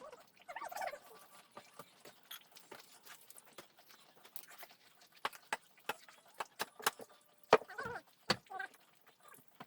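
Irregular sharp knocks and clicks of building work with timber and tools, with two louder knocks about seven and a half and eight seconds in. A voice murmurs faintly near the start and around the loud knocks.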